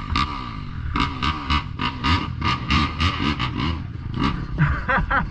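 Small dirt-bike engines revving, their pitch rising and falling again and again, with sharp crackling strokes a few times a second.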